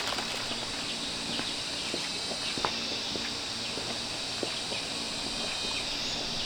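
Footsteps with scattered light crunches and snaps of twigs or leaves underfoot, over a steady high-pitched insect chorus that cuts off abruptly near the end.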